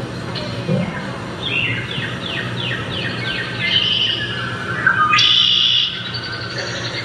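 Bird calls: a quick series of falling chirps, then a louder high call about five seconds in.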